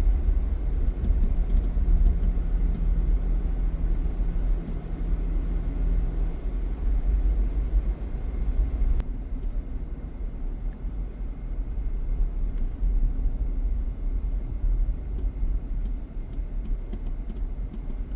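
Car driving slowly, a steady low rumble of engine and tyres heard from inside the cabin, with an engine note that fades after about six seconds and a single faint click about nine seconds in.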